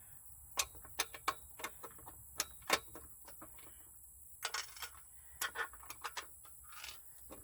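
Irregular sharp clicks and taps of hand tools and hardware during assembly of a chicken plucker, as a bolt and nut are fitted and tightened, coming in two bursts.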